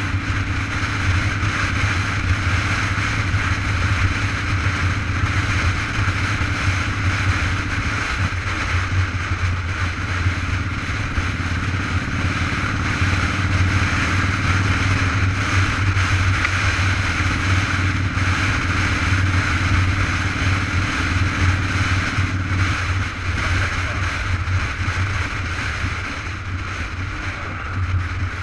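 Steady wind rush and road noise on the microphone of a moving bike, with a low rumble underneath that stays even throughout.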